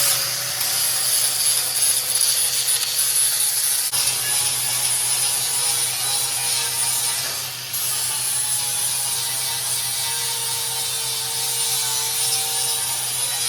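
Angle grinder with a disc wheel running at speed and grinding the cut ends of a metal grate, smoothing off sharp pieces; a steady whine with a harsh grinding hiss, sagging briefly as the disc bites harder about halfway through.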